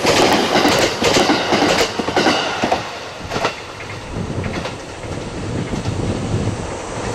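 285-series Sunrise Seto/Izumo sleeper train passing at speed, its wheels clacking over the rail joints as the last cars go by. After about three seconds the clacking thins out and the sound fades to a low rumble as the train pulls away.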